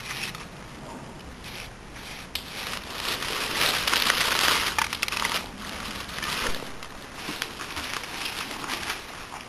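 Dry leaf litter and brush rustling and crackling as someone moves through it, loudest about three to five seconds in.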